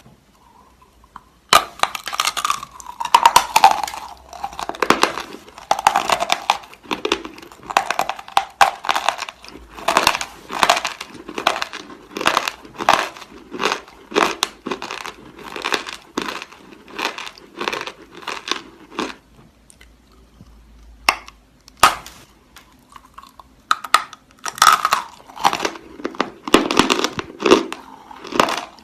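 Chalk being bitten and chewed: a long run of dry crunches in quick succession, with a short pause about two-thirds of the way through before the crunching resumes.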